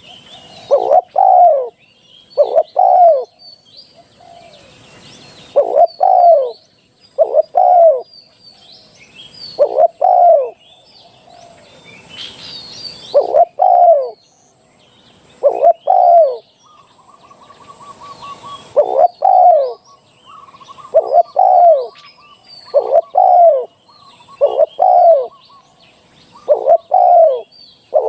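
Spotted dove cooing: two-note phrases repeated every second or two, each note falling in pitch. These are decoy-bird calls used to lure wild spotted doves. Small birds chirp faintly and high in the background, and a brief rattling trill comes about two-thirds of the way through.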